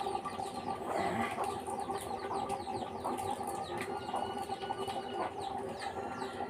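Small birds chirping again and again in quick, short falling chirps over a steady low hum.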